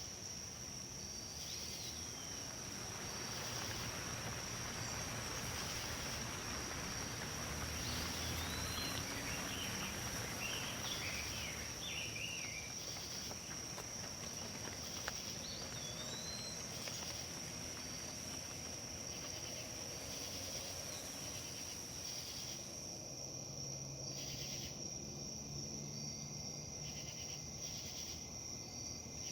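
Breeze rustling through tree leaves under a steady high-pitched insect drone, with a few short chirps scattered through the middle.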